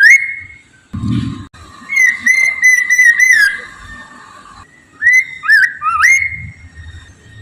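Poksay mandarin, a laughingthrush, singing loud clear whistles: rising slurred notes, then a quick run of repeated short whistles, then more rising slurs. A brief low thump about a second in.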